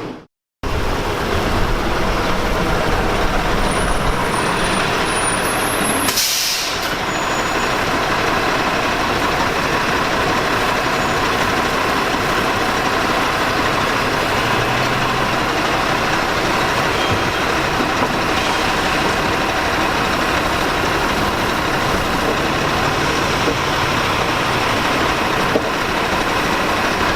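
Maxon automated side-loader garbage truck running steadily, with a short air-brake hiss about six seconds in.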